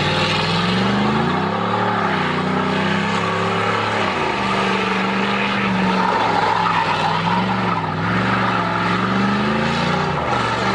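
Vehicle engine revving hard, its pitch rising and falling several times, over a steady hiss of spinning, squealing tyres: a burnout.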